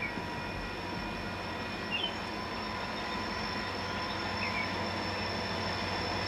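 Freight train hauled by diesel locomotives approaching slowly, its steady rumble growing gradually louder, with a few short bird chirps.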